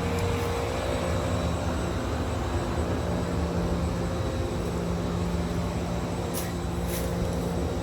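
Air-conditioning units humming steadily, a constant low drone over an even whir. Two short scratchy sounds come near the end.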